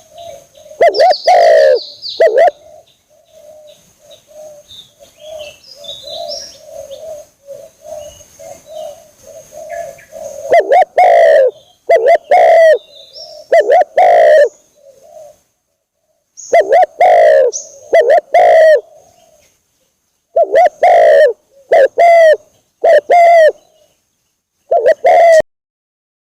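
Spotted dove (tekukur) cooing: loud phrases of deep coos repeated in clusters, with a softer continuous cooing in between during the first half. Faint high chirping sits above them early on.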